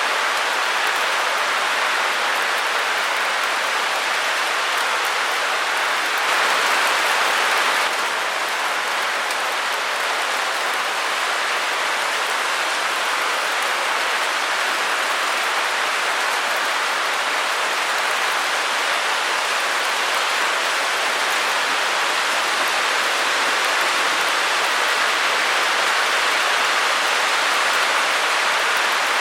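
Steady white noise, an even hiss with little bass, swelling slightly for a couple of seconds about six seconds in.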